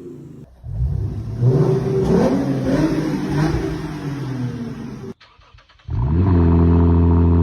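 Lexus RC350 V6 through an aftermarket axle-back exhaust, revved several times in a row, the note rising and falling. After a short break, a loud, steady exhaust note comes in near the end.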